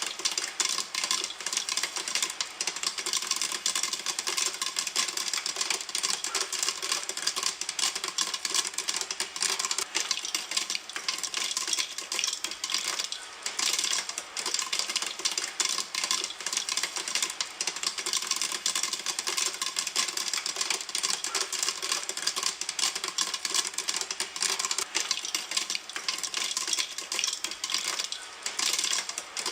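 Popcorn kernels popping in a pan: a dense, continuous run of sharp pops and crackles with no let-up.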